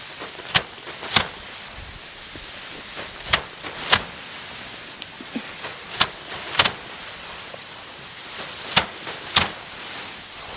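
Sheaves of rice paddy being slammed down by hand to thresh out the grain: sharp whacks in pairs about half a second apart, a pair every two to three seconds, over a steady hiss.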